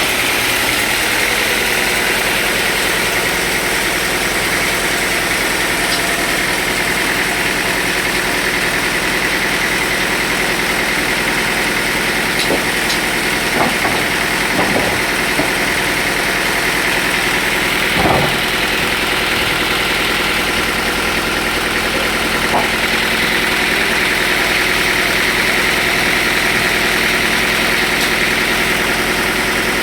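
Sawmill machinery running steadily, with a few short knocks about halfway through and a louder knock a little later.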